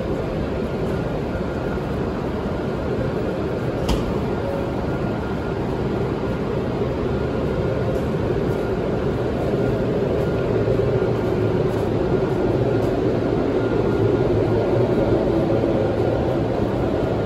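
Steady hum and fan noise of an E7-series Shinkansen train standing at the platform, its air-conditioning and equipment blowers running, with a single sharp click about four seconds in.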